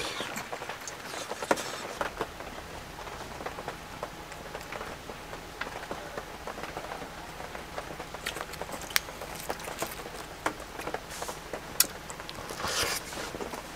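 Steady rain pattering on tent fabric, with scattered sharp ticks and taps throughout.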